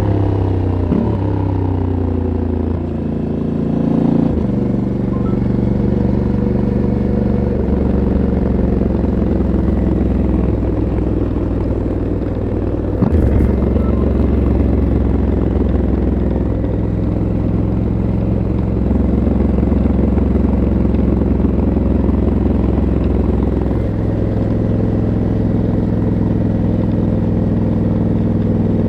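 Stock exhaust and 1084 cc parallel-twin engine of a 2022 Honda CRF1100L Africa Twin Adventure Sports, heard from the rider's helmet while riding. The pitch falls and steps down in the first few seconds as the bike slows through the gears, steps again with a gear change about thirteen seconds in, and otherwise holds a steady note.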